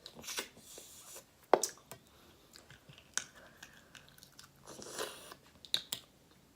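Close-mic eating of snow crab and shrimp: chewing and crunching with several sharp cracks, the loudest about a second and a half in.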